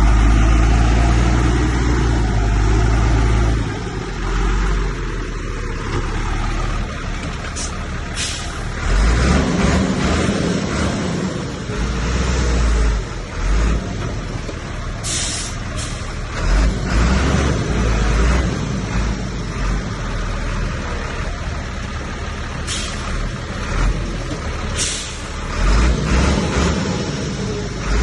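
Heavy diesel earthmoving machinery running and working, its engine swelling and easing off repeatedly. A handful of brief sharp sounds cut in every few seconds.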